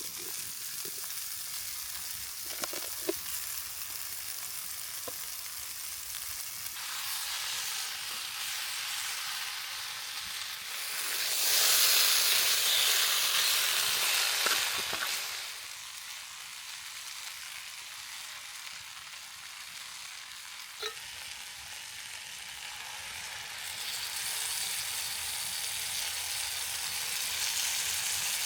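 Food frying in a large skillet over a campfire, a steady sizzling hiss that swells much louder for about four seconds near the middle, with a few small knocks.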